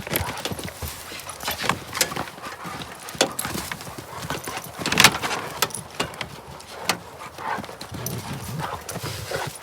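Dogs play-wrestling: irregular scuffling with quick thumps and knocks of paws and bodies.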